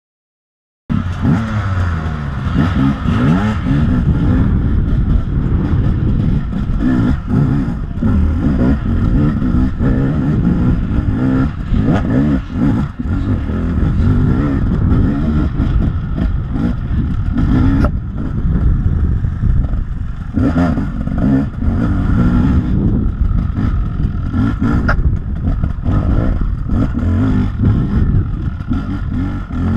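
KTM enduro motorcycle engine running and revving up and down as the bike is ridden, with a few sharp knocks. It starts abruptly about a second in.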